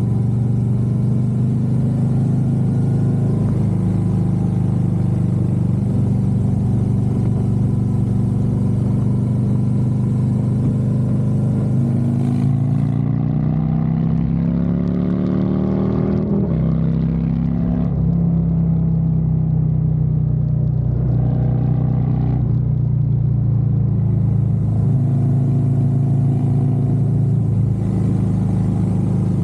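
Harley-Davidson Road Glide's V-twin engine running under way at a steady cruise. About halfway through, its pitch climbs as it accelerates, then drops suddenly at a gear change and settles again.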